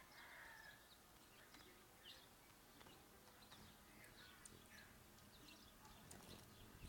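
Faint, short high chirps of small birds, scattered irregularly.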